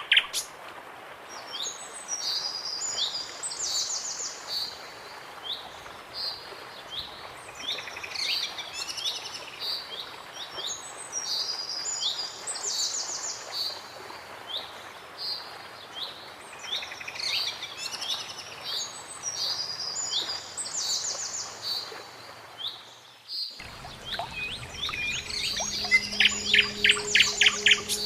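Birds singing and calling, with many short chirps and trills repeating over a steady outdoor background. The background changes abruptly about 23 seconds in, and a quick run of loud, evenly spaced chirps follows near the end.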